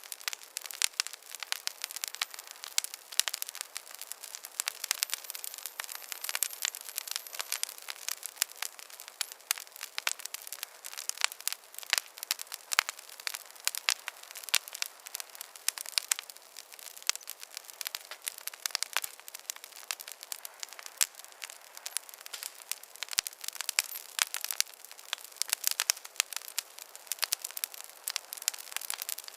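Campfire crackling: a constant, irregular stream of sharp pops and snaps over a soft hiss, thin and without any low rumble.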